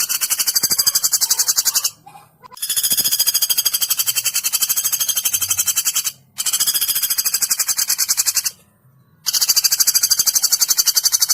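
Woodpecker call played as a bird-training master recording: a high, very fast, even series of notes, about seven or eight a second, in long runs broken by short pauses about 2 s in, just past 6 s and around 9 s.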